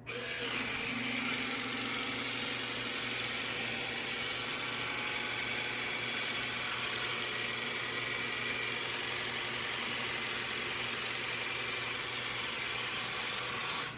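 Cordless water flosser's pump motor running steadily with a hissing spray; it switches on abruptly at the start and cuts off just before the end.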